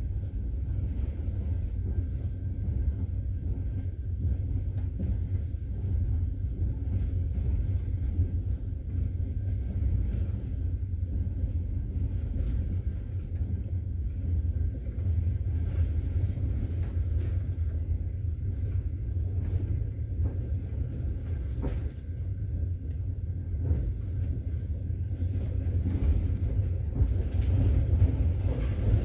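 Steady low rumble of a moving train heard from inside the carriage, with scattered faint clicks and knocks, growing a little louder near the end.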